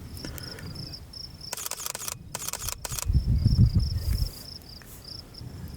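Insects chirping steadily in short repeated high-pitched pulses. A burst of rustling noise comes in about a second and a half in, followed by a loud low rumble at about three to four seconds.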